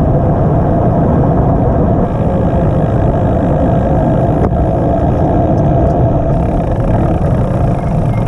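Steady, loud road noise of a vehicle on the move, with a constant hum running underneath.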